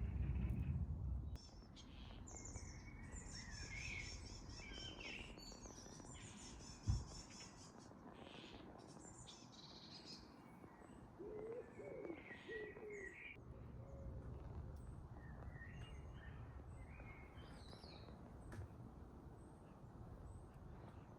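Garden birds singing and calling, with a fast high trill in the first half and a low hooting call of about three notes in the middle. A single sharp knock about seven seconds in, and a low rumble of wind or handling at the start and again later.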